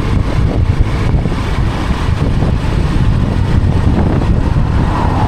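Vehicle travelling along a highway: a steady low rumble of road and wind noise.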